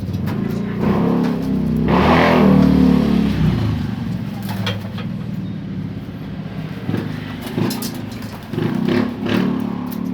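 A motor vehicle engine running steadily, swelling louder about two seconds in.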